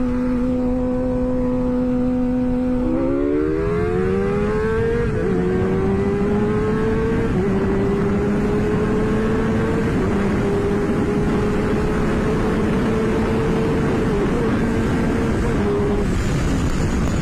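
Motorcycle engine holding a steady cruise, then accelerating hard about three seconds in, its pitch climbing and dropping back at upshifts about five, seven and ten seconds in as it pulls toward top speed. Heavy wind rush on the helmet-mounted microphone runs underneath.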